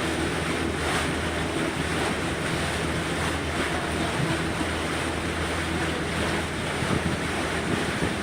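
A houseboat under way: its motor runs with a steady hum, under wind on the microphone and the rush of water.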